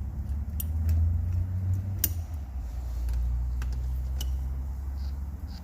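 A few sharp, separate metal clicks and taps from tools on the camshaft bearing cap bolts as they are snugged down, over a low steady hum.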